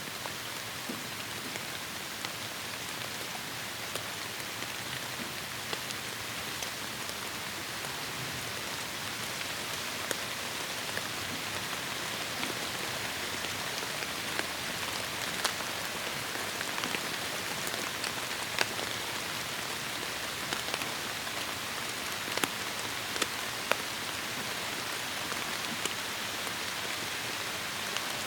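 Heavy rain falling on forest foliage: a steady hiss, with individual drops ticking sharply now and then, more often in the second half.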